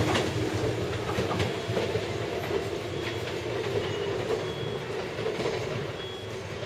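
Tobu 6050 series four-car electric train pulling away, its wheels clicking over the rail joints and points, the sound fading steadily as it moves off.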